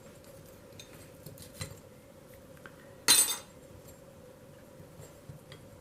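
Small metal parts of a toy-train locomotive's truck and coupler shield clicking and clinking as they are handled, with one louder metallic clatter about three seconds in.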